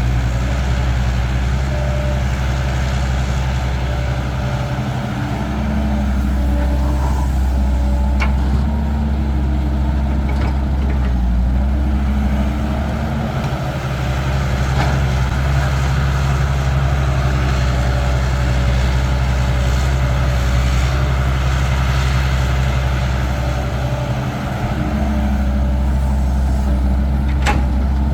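Caterpillar 312 excavator's diesel engine running steadily under load, its drone easing a few times and coming back up as the work cycle changes. A few sharp clanks are heard, near the end most plainly.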